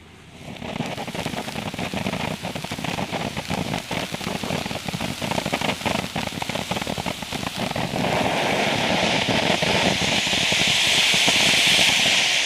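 Firework fountain spraying with a dense, continuous crackle over a hiss. It starts just after the beginning and grows louder about eight seconds in.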